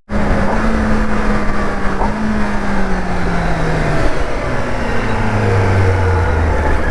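Sport motorcycle engine heard from the moving bike, its pitch falling slowly and steadily as the bike slows down, over a steady rush of road and wind noise.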